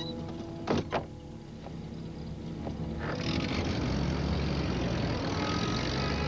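Two sharp knocks less than a second in, then a loud, steady rumbling noise that sets in about three seconds in and holds.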